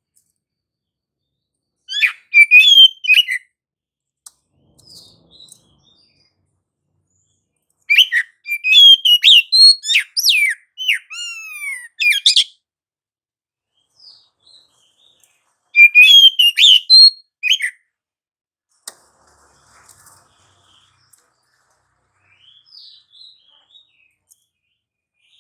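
Oriental magpie-robin (kacer) singing in three loud bursts of rapid whistled phrases, the middle one longest and ending in a run of falling slurred notes, with a few soft notes in the pauses.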